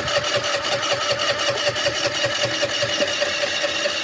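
Electric starter cranking a 50cc scooter engine with a steady whir and a rapid, even pulsing, without the engine catching. The owner puts the failure down to a loose carburetor that is not drawing enough pressure.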